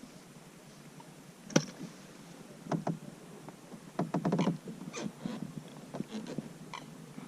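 Scattered knocks and clicks of gear handled on a fishing kayak. The sharpest knock comes about one and a half seconds in, and a quick run of clicks about four seconds in.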